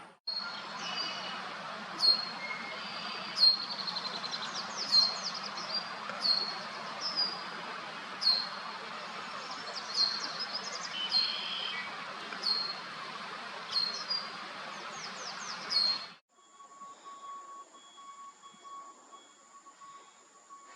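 Red-winged blackbird giving short, sharp calls, one about every second and a half, over a steady outdoor noise. About sixteen seconds in, the calls stop abruptly and a quieter, steady, faint high-pitched buzz takes over.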